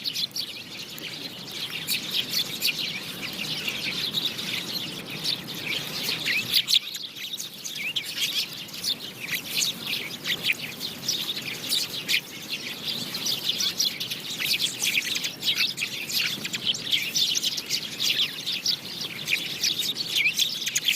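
House sparrows chirping, many short overlapping chirps at once, with a brief lull about seven seconds in.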